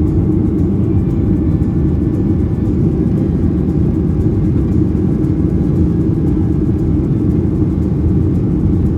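Steady low rumble of an airliner's jet engines and airflow, heard from inside the cabin during takeoff.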